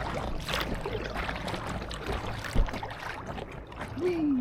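Small boat-wake waves splashing and slapping against an inflatable kayak, with paddle splashes and a single thump about two and a half seconds in.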